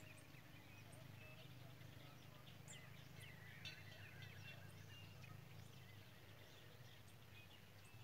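Wild songbirds singing faintly: scattered high chirps and whistled notes, with a short chattering trill about three to four seconds in, over a low steady hum.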